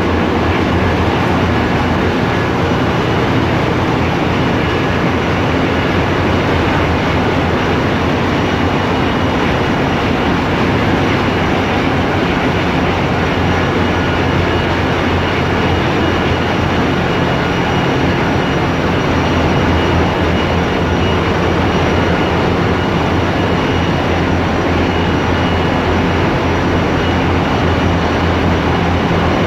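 Loud, steady machinery noise of a ship's engine room: diesel engines and auxiliary machinery running continuously, a deep drone with a few faint steady whines above it.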